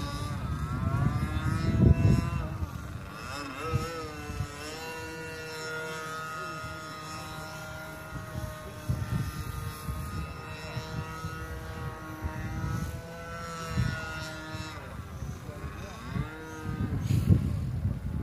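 Gas-powered Primo Laser RC airplane engine buzzing in flight, its pitch sweeping up and down as the plane changes throttle and passes by, with wind rumbling on the microphone.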